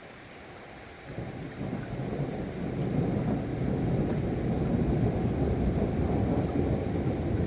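Thunder over steady rain: a low rumble starts about a second in, builds over the next two seconds and keeps rolling.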